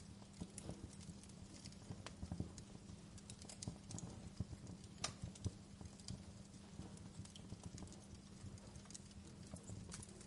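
Wood fire crackling in a fireplace: irregular small pops and snaps, several a second, over a low steady rumble.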